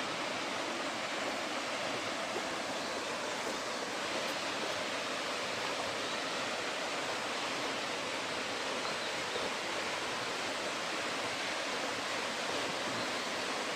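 Steady rush of running and falling water, an even hiss with no breaks.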